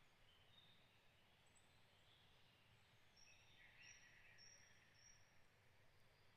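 Faint birdsong: a few short warbled phrases, then a series of brief high notes repeated about every half second in the middle, over quiet background hiss.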